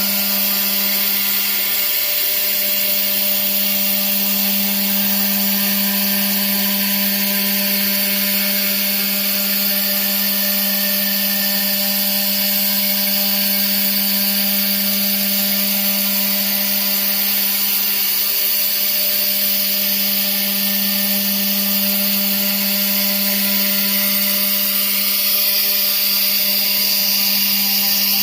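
Spindle of a stone-carving CNC router running steadily, a constant hum with a high hiss over it, as it carves stone. The hum dips briefly twice.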